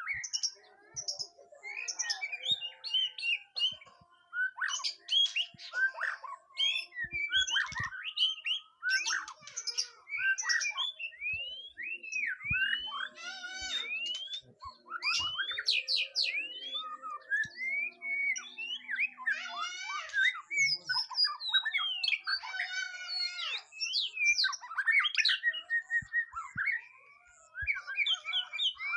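White-rumped shama singing a long, varied song of quick whistled phrases, sweeping up and down in pitch, with trills and short chattering notes.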